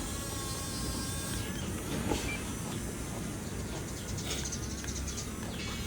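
Small electric motors and gearboxes of a radio-controlled construction toy running with a faint, shifting whine and a few clicks.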